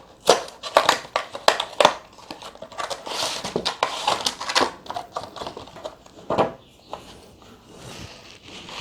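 Product packaging being opened by hand: crinkling and rustling, with a quick run of sharp snaps and crackles in the first two seconds, a longer rustle around the middle and a single snap later on.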